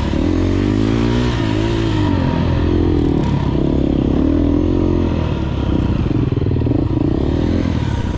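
Enduro dirt bike engine revving as it is ridden, its pitch climbing in the first second, then rising and falling several times with the throttle.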